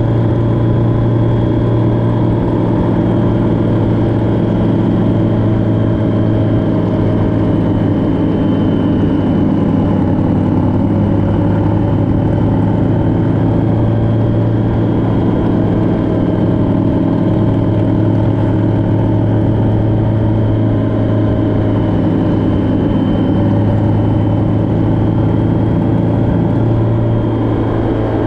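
Engine and road noise of a moving vehicle cruising at a steady speed. The engine note holds nearly constant, with only slight rises and falls in pitch.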